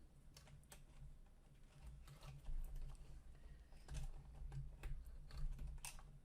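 Scattered light clicks and taps of hands working wires and plastic connectors, a printer-kit cable being routed and pushed into its socket, over a faint low hum.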